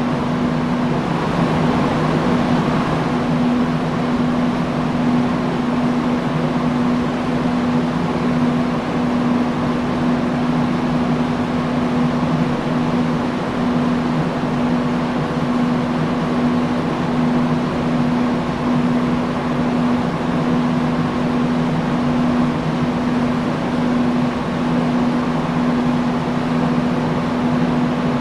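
Industrial fan running steadily: an even rush of moving air over a low, constant motor hum.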